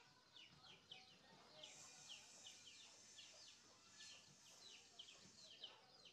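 Faint, rapid chirping of small birds: short downward-sliding chirps, several a second, over a soft background hiss.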